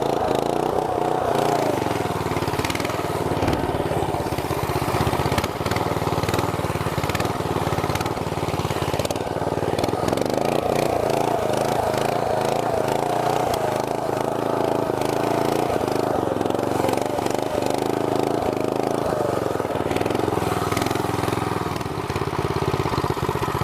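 Small single-cylinder four-stroke engine of a 212cc go kart running steadily, its pitch wavering slightly up and down.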